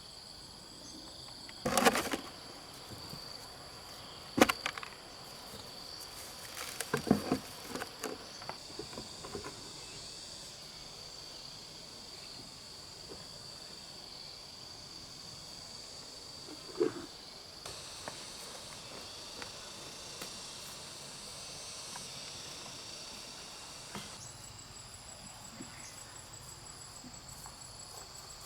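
Insects calling steadily in a high, unbroken tone. A few sharp knocks and clatters sound over it, about two, four and seven seconds in and again near seventeen seconds.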